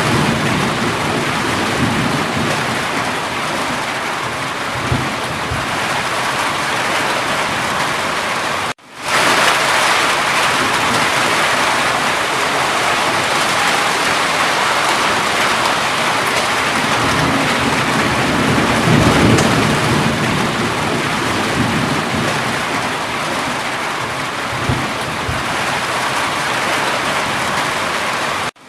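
Steady heavy rain with low rolls of thunder, one near the start and another about two-thirds of the way through. The sound cuts out suddenly for a moment about nine seconds in, then fades back in, and cuts out again at the end.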